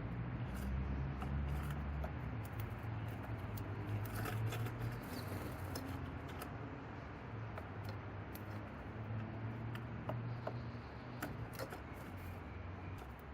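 Scattered light clicks and taps at irregular intervals over a low, steady rumble.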